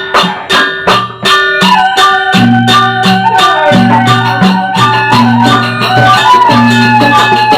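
Sasak wayang gamelan ensemble playing a gending: quick, even percussion strokes over ringing metal tones and a held melody line, with a low pulsing tone joining about two and a half seconds in.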